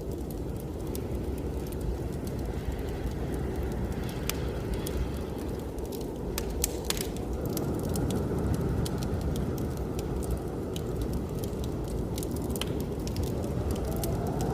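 Wood fire in a fireplace crackling, with frequent sharp pops, over a steady rushing of blizzard wind.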